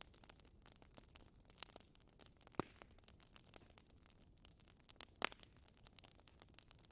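Wood fire crackling in a fireplace: a steady scatter of faint sharp crackles, with two louder pops about two and a half and five seconds in.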